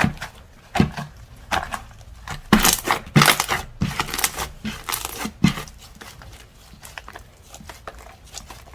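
Slime being squeezed, poked and stretched by hand, giving irregular sticky pops and crackles, with a denser, louder run of them a few seconds in.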